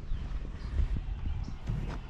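Irregular low thuds and rumble of footsteps carried through a walking, body-worn camera, with a few sharper knocks.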